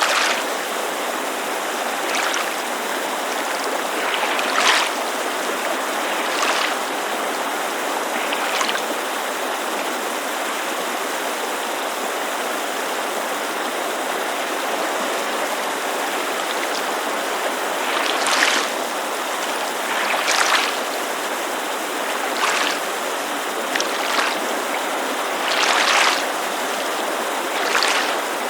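Steady rushing of a mountain creek, with lake water lapping against the shore in short splashes every couple of seconds. The laps pause for about ten seconds in the middle.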